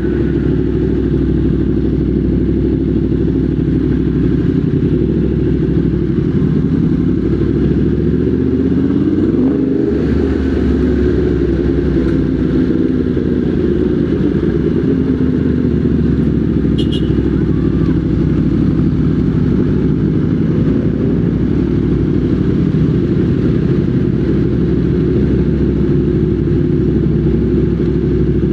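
Motorcycle engine running steadily on the move, its pitch shifting a little about eight to ten seconds in. A brief high chirp about seventeen seconds in.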